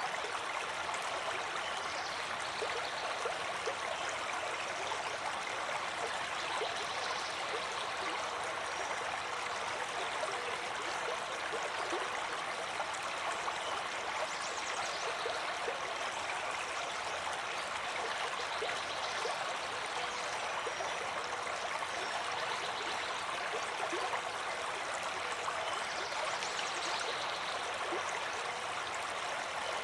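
Water flowing steadily in a stream, an even rushing with no change in level.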